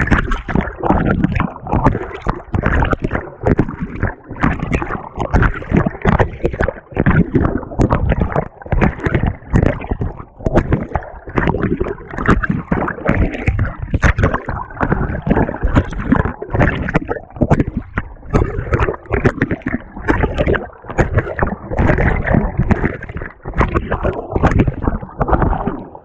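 Water and laundry churning and sloshing in the tub of a GE GTW220ACKWW top-loading washing machine as the agitator works, heard from a camera fixed to the agitator itself. It comes as loud, irregular surges with no let-up.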